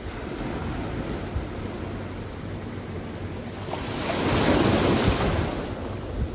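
Sea waves washing onto a beach, one wave surging loudest about four to five and a half seconds in, with wind buffeting the microphone.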